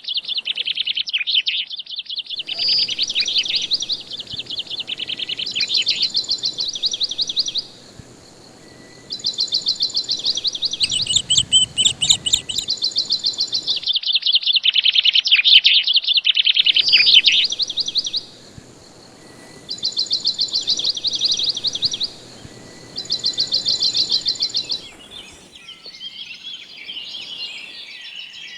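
Small birds singing in fast, high trills of rapid chirps, burst after burst with short pauses between.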